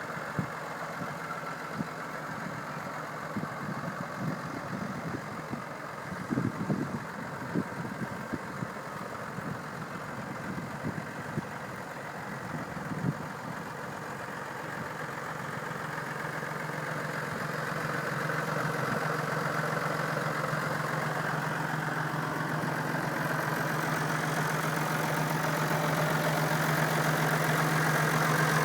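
Massey Ferguson MF 4220 tractor's diesel engine running at idle with a steady hum, with a few scattered knocks in the first half. Over the second half the engine sound grows steadily louder.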